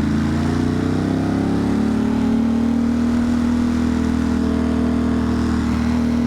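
Ducati Monster's twin-cylinder engine accelerating, its pitch rising over the first couple of seconds, then running steadily at a held speed.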